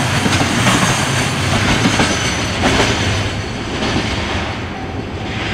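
The last container wagons of a freight train rolling past, their wheels clattering over the rail joints, the sound dying away after about three seconds as the end of the train goes by.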